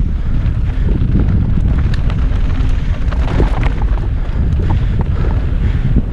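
Wind noise on the microphone of a mountain bike's onboard camera during a fast downhill run, over a steady low rumble of tyres on dirt, with frequent short clicks and knocks of the bike rattling over rough ground.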